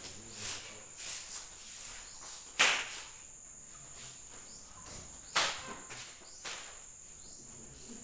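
A few sharp knocks and taps over a faint steady background, the two loudest about two and a half seconds and five and a half seconds in.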